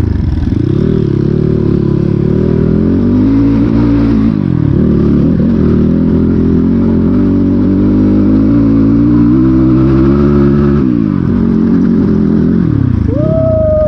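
Dirt bike engine revving up and down on the throttle, its pitch rising and falling several times, with a short rising-and-falling pitched sound near the end.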